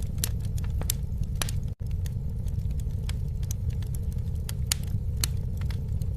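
Wood fire burning with a steady low rumble of flames and frequent sharp, irregular crackles and pops. The sound cuts out for an instant a little under two seconds in.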